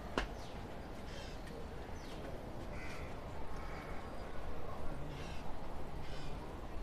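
A crow cawing, several short harsh caws spread a second or two apart.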